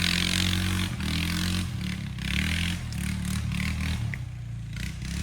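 A motor vehicle's engine running, its tone steady at first and then rising and falling from about a second in.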